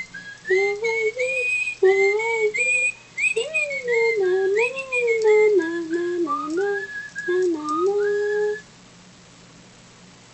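Little Live Pets Singalong Sam electronic toy bird playing a whistled tune through its small speaker, the melody gliding up and down in short phrases. It stops suddenly a little over eight seconds in.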